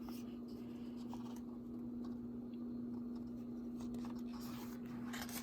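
Paper rustling and soft handling noises as a picture book's page is turned, loudest near the end, over a steady low electrical hum.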